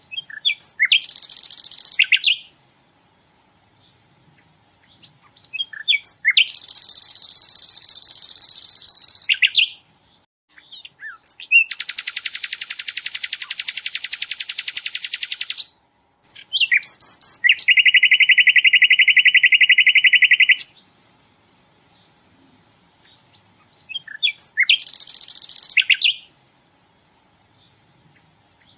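Sikatan londo songbird singing in repeated bouts: each opens with a few short, sharp chips and breaks into a very fast, high-pitched rattling trill lasting two to four seconds, followed by a pause of a few seconds. The bout in the middle is pitched noticeably lower than the rest.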